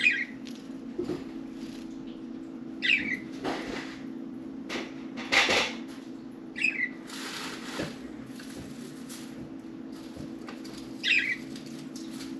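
Budgerigars giving short, falling chirps about four times, with short noisy bursts of movement between them, over a steady low hum.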